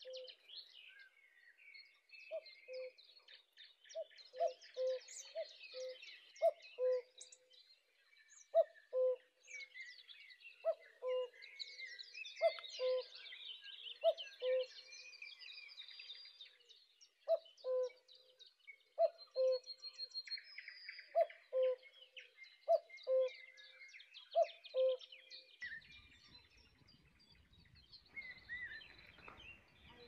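Birds calling: a low two-note call repeated over and over, roughly once a second, over fainter, higher chirping from other birds. The low calls stop a few seconds before the end.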